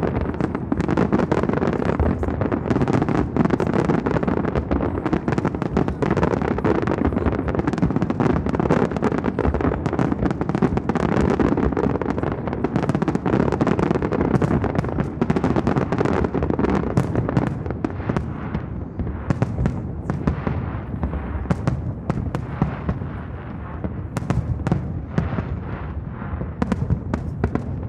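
Aerial fireworks display: a dense, continuous barrage of bursts and crackling reports, easing about two-thirds of the way through into sparser, more separate bangs.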